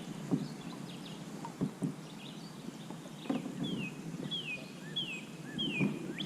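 A bird calling a series of short whistled notes that each slide downward, four in quick succession in the second half, over outdoor background noise with a few dull knocks.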